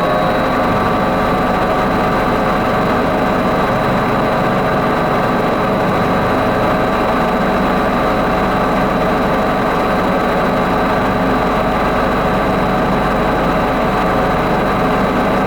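The Avió aeroplane ride's drive machinery running at a steady speed: a continuous mechanical whine made of several steady tones over a low rumble, holding level throughout.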